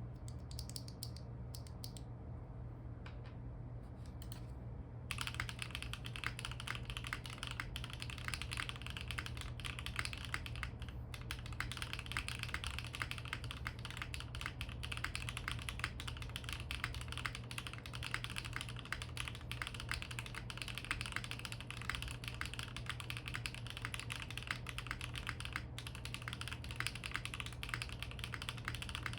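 Typing on a custom 65% mechanical keyboard: stock HMX Macchiato linear switches in a carbon fibre plate with bump-on O-rings and no foam, under doubleshot ABS Cherry-profile keycaps. A few scattered keystrokes come first, then steady rapid typing from about five seconds in, over a steady low hum.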